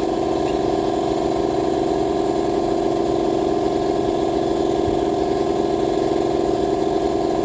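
Garage air compressor running, a steady drone that does not change.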